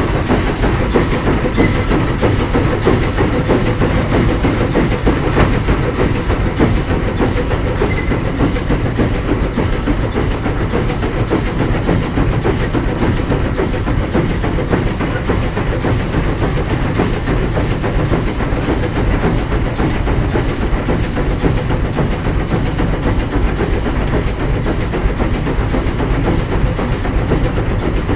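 Heisler geared steam locomotive running along the line, heard from inside its cab: a steady, unbroken mix of engine and running-gear noise, wheels on rail and steam hiss.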